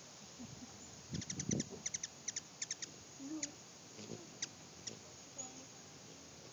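Hummingbird giving short, high chip notes, first in quick runs and then a few single chips, with wind buffeting the microphone about a second in.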